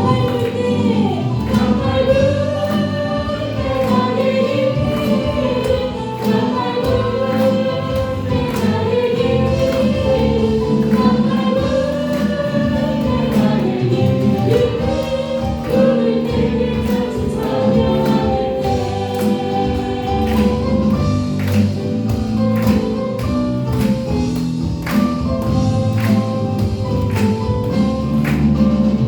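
Church praise-and-worship song: several voices singing together over a band accompaniment with a steady drum beat.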